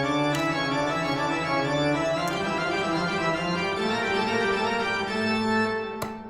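Background music: sustained keyboard chords with an organ-like tone, fading out near the end.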